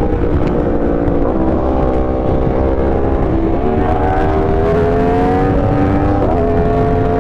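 Sportbike engine running at a steady road pace under heavy wind noise, its pitch dipping and stepping a few times as the throttle changes.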